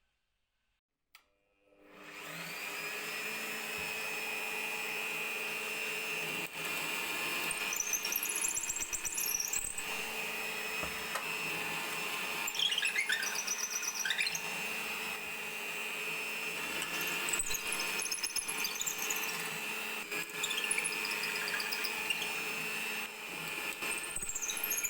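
Small electric power tool switched on, winding up to speed and running steadily. High squeals that dip and rise in pitch come about four times.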